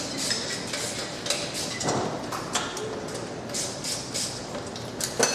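Irregular metallic clinks and knocks of hand tools and engine parts being worked during engine assembly, over steady background noise.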